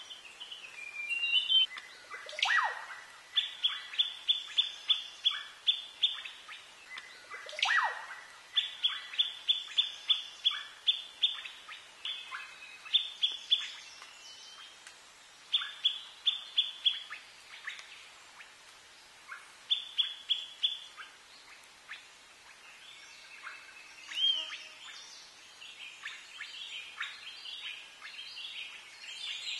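Forest birds singing: bursts of a rapid series of short, high repeated notes, about five a second, with two loud downward-sweeping calls in the first eight seconds.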